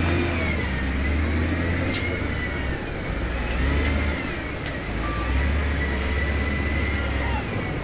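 Heavy construction-machine diesel engine running, a deep rumble that swells and eases with load, with a high whine wavering in pitch above it.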